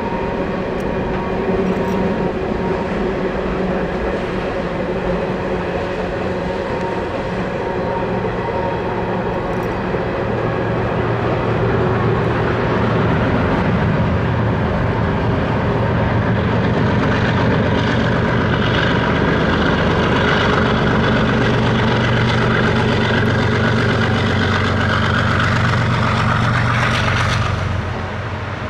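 Canadian Pacific freight train rolling past: a steady rumble of wheels on rail. From about 12 s in a diesel locomotive, the train's tail-end distributed-power unit, grows louder with a steady low engine tone, and the sound drops away just before the end.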